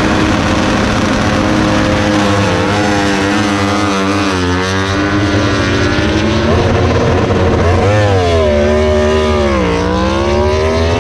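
MotoGP racing motorcycles running on the track, loud. The engine pitch dips and then climbs again twice, about four and a half seconds in and just before the end, as the bikes come off the throttle and accelerate away.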